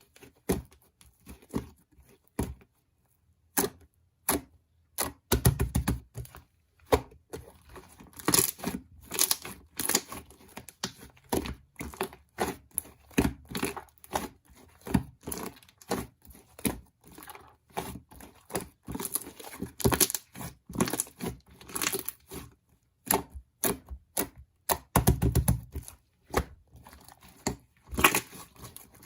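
Close, irregular crinkling and tearing noises mixed with sharp clicks and taps, as of something being handled and crumpled, with a couple of heavier thumps about five seconds in and near the end.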